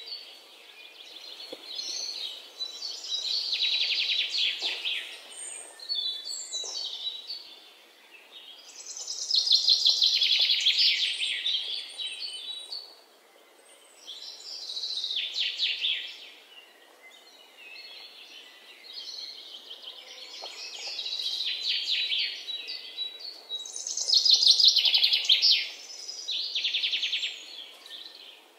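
Birds chirping and singing in repeated bouts of rapid trilled notes, each bout lasting a second or three, with short pauses between.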